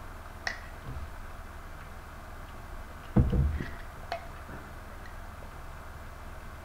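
A spoon clicking and scraping in a jar of Goober Grape peanut butter and jelly during fast eating: a few scattered light clicks, and one dull thump about three seconds in, the loudest sound.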